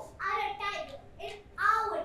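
A child's high-pitched voice in about three short phrases.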